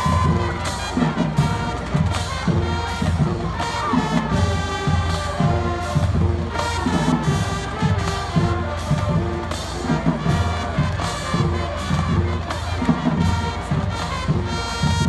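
Marching band playing, brass carrying the tune over a steady drum beat, with a crowd cheering in the stands.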